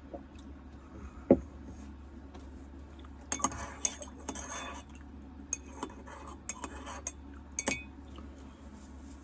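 Cutlery and dishes clinking and rattling as they are handled, in two bursts of sharp clinks, with a single dull thump about a second in and a steady low hum underneath.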